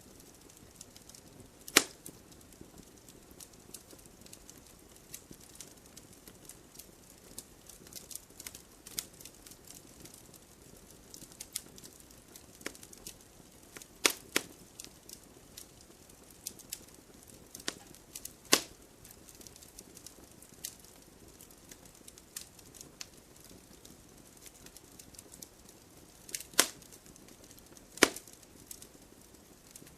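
Wood fire in a fireplace crackling, with irregular small clicks and a handful of sharp, louder pops from the burning logs.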